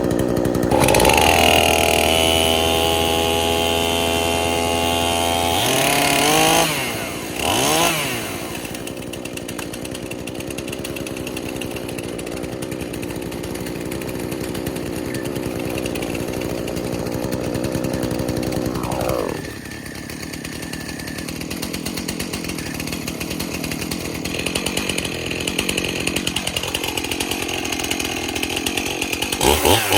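Two-stroke gas chainsaw running: it holds a steady fast idle for the first few seconds, is revved up and down a couple of times, then runs on. The engine drops back about two-thirds of the way through and is blipped again near the end.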